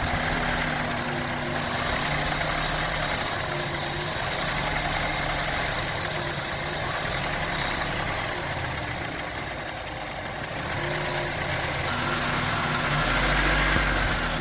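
2002 Honda CR-V's 2.4-litre four-cylinder engine idling very roughly, its speed wavering up and down, dipping about ten seconds in and rising again near the end. The unstable idle is what the owner later traces to a faulty idle air control valve.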